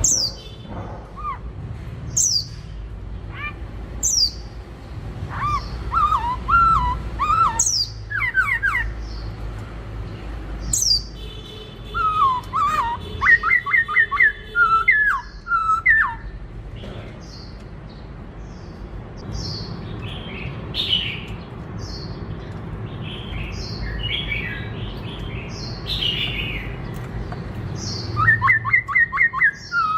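Black-throated laughingthrush singing: sharp high downward whistles every couple of seconds, mixed with warbled phrases and quick runs of repeated notes, with scratchier, harsher notes in the second half.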